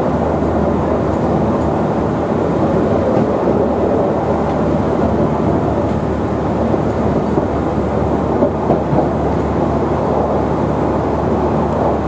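QR 2000 class rail motor running steadily on the climb, a continuous drone of its diesel engine under load mixed with the wheels on the rails. A few light knocks come a little past the middle.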